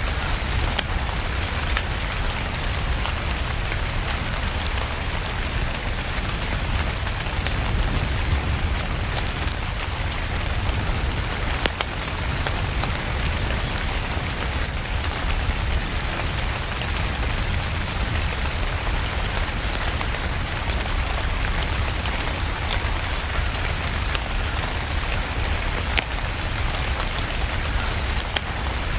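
Steady rain falling, a dense even hiss with a low rumble, mixed with scattered sharp crackles of a wood fire burning in a fireplace.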